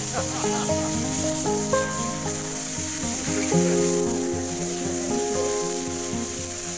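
Pieces of hare frying in hot sunflower oil in a cast-iron kazan lid over a coal fire, a steady loud sizzle as the oil flares up in flames. Background music with long held notes plays over it.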